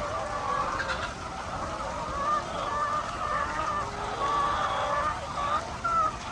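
A flock of chickens in a coop calling over one another: a dense, continuous chorus of overlapping clucks and cackles.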